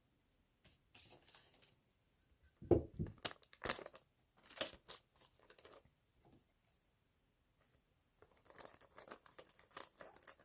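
Crinkling and rustling handling noises in short, irregular bursts, with a heavier knock a little under three seconds in.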